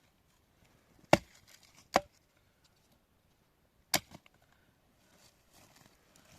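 Axe chopping firewood: three sharp strikes, two about a second apart and a third two seconds later.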